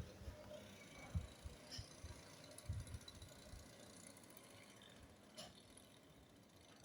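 Near silence: faint background hiss with a few soft, low thumps, about a second in and again around three seconds in.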